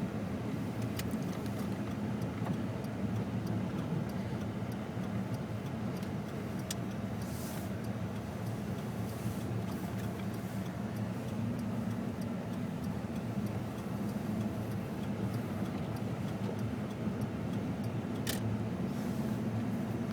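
Steady low drone of a 2006 Ford F-150 pickup driving on snowy roads, heard from inside the cab, with a few faint clicks along the way.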